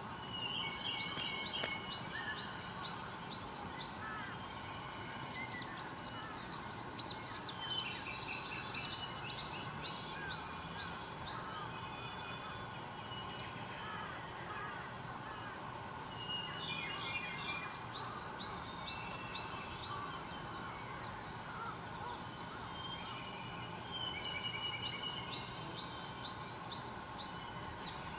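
A songbird singing four phrases, each a quick run of high notes slurring downward, lasting about three seconds, with a few seconds' pause between them. Fainter bird calls sit underneath, over a steady background hum.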